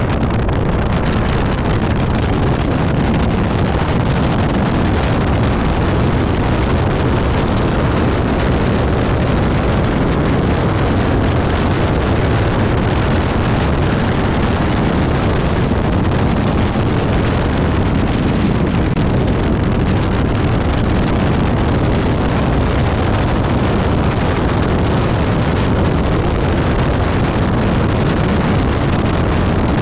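Caterham 620R's supercharged 2.0-litre four-cylinder engine running hard at track speed, heard from the open cockpit through heavy wind buffeting on the microphone. The noise is loud and steady throughout, with no clear engine note standing out from the rush of wind and road.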